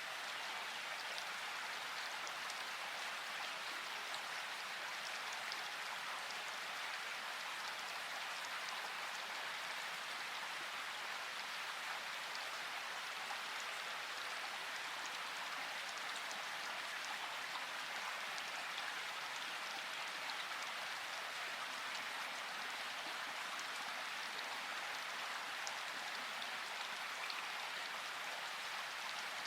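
Steady rainfall, an even hiss of rain with scattered drop ticks, without any thunder.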